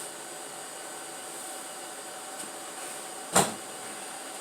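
Steady background hum, with one sharp knock about three and a half seconds in.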